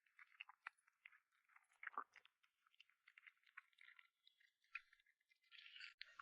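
A cat chewing food, faint irregular crunching clicks, with a slightly louder bite about two seconds in.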